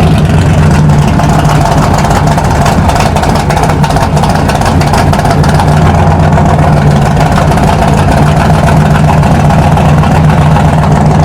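Custom 1948 Ford COE truck's engine idling steadily and loud through custom headers.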